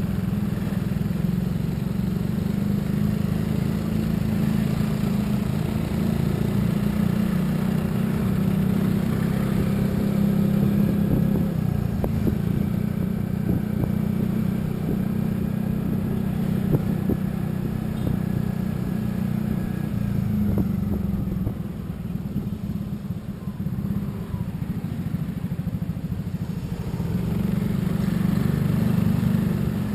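A vehicle's engine and road noise running steadily while driving. The engine eases off for a few seconds past the middle and then builds up again near the end.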